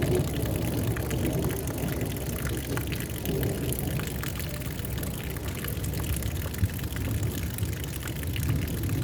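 Thunderstorm ambience: a low, steady rumble with faint scattered ticks above it.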